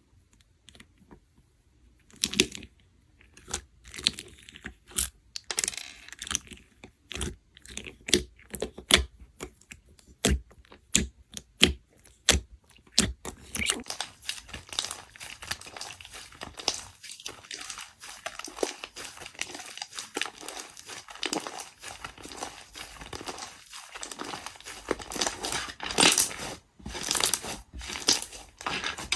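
Crisp crinkling and tearing sounds: separate sharp crackles and snaps at first, then a denser, continuous crackle from about halfway through.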